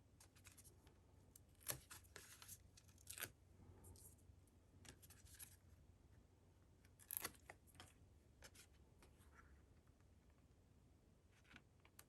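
Faint paper-crafting handling sounds: scattered small clicks and short rustles of cardstock and paper being handled and pressed into place, over a faint steady hum.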